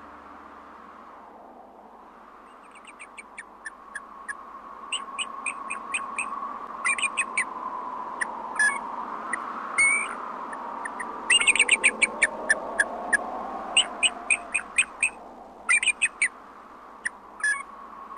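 Birds chirping: quick runs of short, sharp, high chirps, several a second, coming in bursts with brief gaps, over a faint steady tone.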